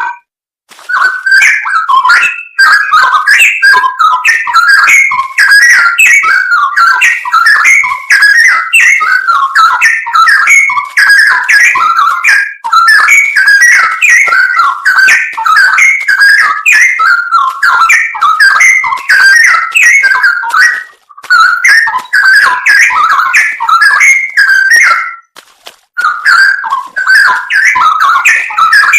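Straw-headed bulbul (cucak rowo) singing loudly: a near-continuous stream of rapid, bubbling whistled phrases, broken by two short pauses in the last third.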